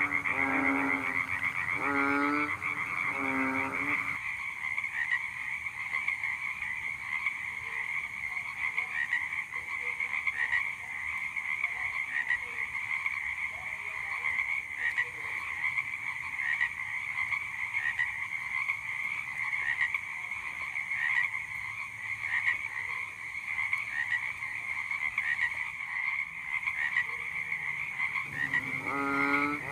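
Frog croaking close by: a run of low, rapidly pulsed croaks for the first four seconds and again near the end, over a steady high pulsing trill in the background.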